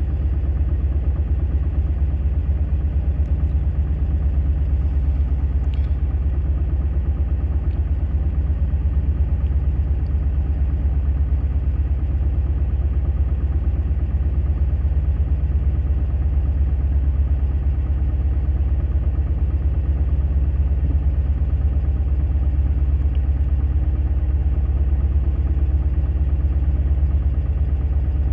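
Yacht's engine running steadily under way, a constant low drone.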